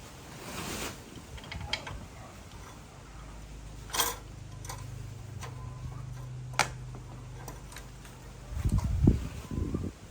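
Mechanical workshop sounds: a few sharp clicks and knocks over a low steady hum, with a louder low rumbling near the end.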